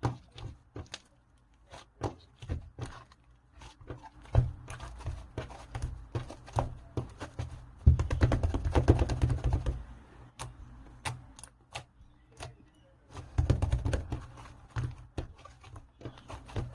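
Soft cream slime being squished and pressed by hand: a run of sharp, sticky clicks and pops, thickening into dense crackling about halfway through and again a few seconds later.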